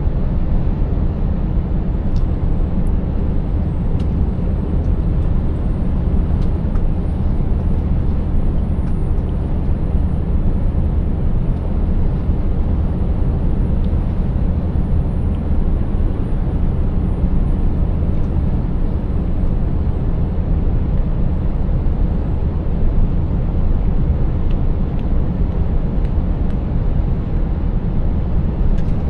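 Scania 590S truck's 16-litre V8 diesel running steadily while driving, a deep even drone with road noise.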